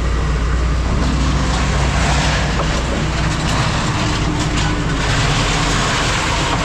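Heavy diesel machinery running with a steady low drone, with faint metallic scraping and squeaks over it.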